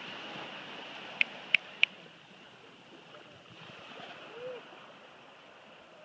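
Birds over a steady high hiss: three sharp chirps between one and two seconds in, and a short low hooting note a little past four seconds.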